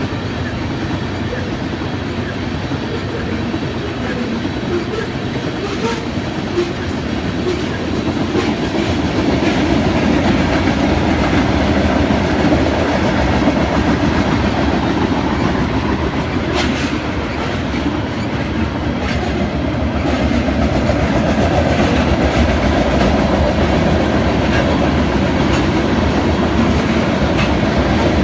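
Freight train rolling past, its cars' steel wheels making a steady noise on the rails with scattered clicks, a little louder from about ten seconds in.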